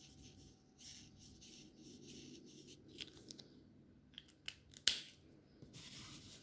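Alcohol marker nibs stroking across paper in short scratchy passes, with a few sharp clicks in the middle, the loudest just before five seconds in.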